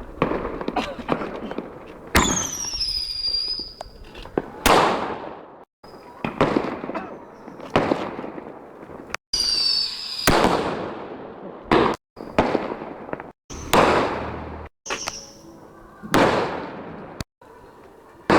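Fireworks bursting: a string of loud bangs, each trailing off in a rolling echo, with falling whistles about two seconds in and again about ten seconds in. The sound cuts out for a moment several times.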